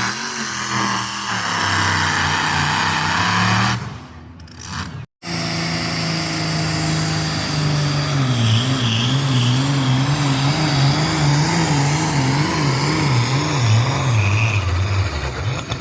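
Pulling tractor's engine running hard under load, its pitch wavering up and down. The sound drops out abruptly for about a second around four to five seconds in, then comes back.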